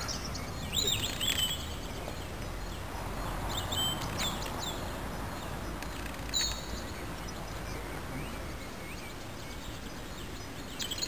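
Birds calling with short high chirps several times, in small clusters, over a steady background of outdoor noise.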